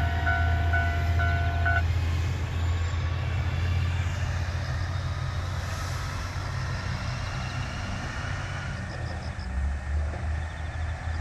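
Level-crossing alarm sounding its two-tone electronic ding about twice a second, cutting off about two seconds in. Under it and after it, the low rumble of an Amagi Railway diesel railcar running past, which slowly fades.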